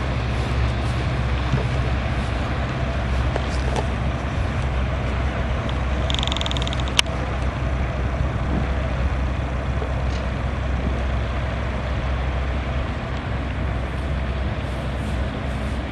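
Motorboat engine running with a steady low drone. About six seconds in, a brief high chirping tone sounds for about a second, followed by a single sharp click.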